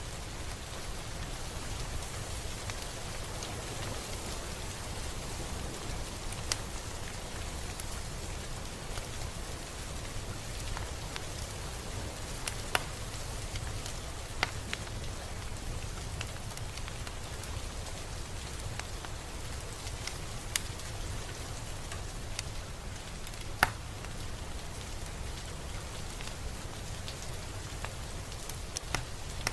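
Steady rain falling on a surface, an even hiss with a few sharper single drop taps standing out now and then, the loudest one near the end.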